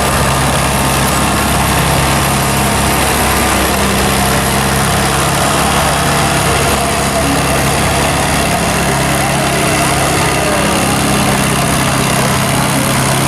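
Antique farm tractor engine running at a steady pitch.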